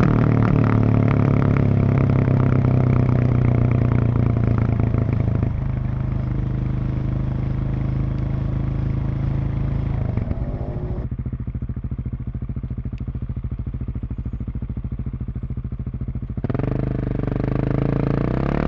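Husqvarna 701 single-cylinder engine and exhaust running at a steady speed, then dropping to a lower, quieter pulsing note about halfway through. Near the end the revs rise again as the throttle opens.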